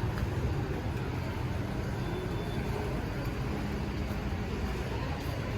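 Street traffic ambience: a steady low rumble of passing vehicles, with no single event standing out.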